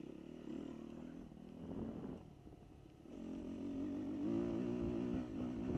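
Dirt bike engine running, its pitch rising and falling with the throttle; it drops away about two seconds in and comes back louder from about three seconds in.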